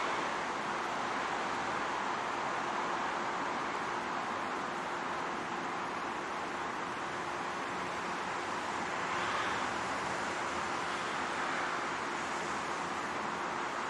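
Steady rushing noise of riding a bicycle along city streets, wind and road noise on the microphone, swelling slightly about nine seconds in, with a faint steady hum underneath.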